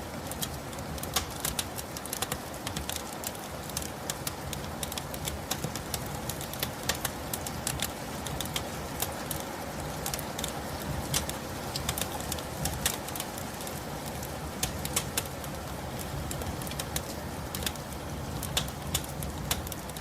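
Steady rain with many irregular sharp drips and ticks over a low, even hiss.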